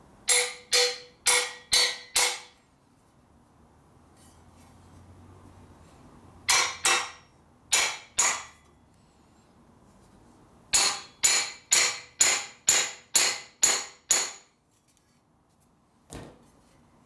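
Hammer blows on steel, swaging a metal part clamped in a vise, each strike ringing briefly. The blows come in runs: five quick strikes, then two pairs, then a run of eight at about two a second, with a faint knock near the end.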